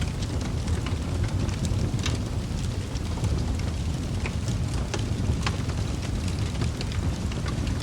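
Wood fire burning in a fireplace: a steady low rumble of the flames with frequent sharp crackles and pops of the burning logs.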